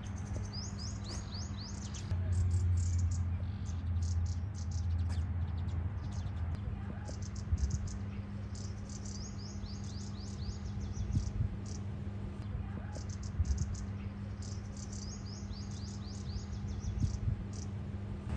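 Small birds chirping: rapid series of short, high chirps repeating again and again. A steady low hum runs underneath and swells for a few seconds about two seconds in.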